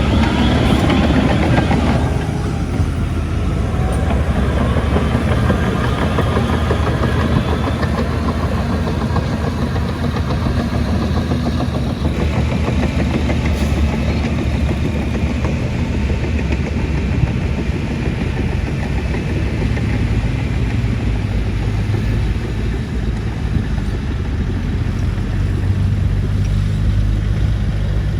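Heavy diesel construction machinery running steadily: a deep engine drone, with some high wavering squeals in the first few seconds.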